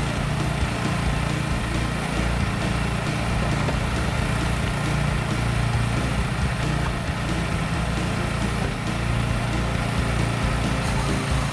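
Engine running steadily at a constant speed, the drive powering a PALAX D270 firewood processor.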